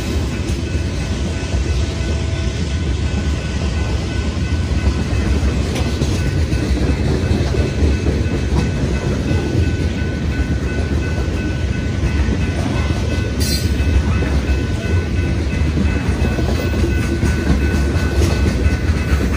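Freight train cars rolling past on the rails, a steady low rumble of wheels with faint high, steady tones above it.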